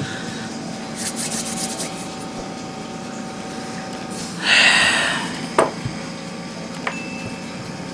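Hands working small craft pieces on a table: a quick flurry of fine clicks about a second in, one louder rub or scrape midway, then a few light clicks, over a steady low hum.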